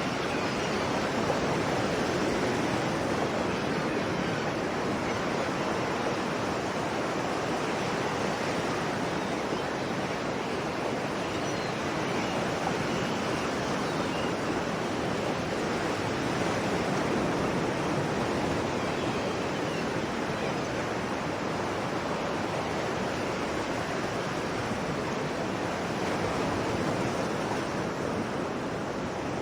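Sea waves washing continuously onto a shore, a steady rushing surf with slow, gentle swells in loudness.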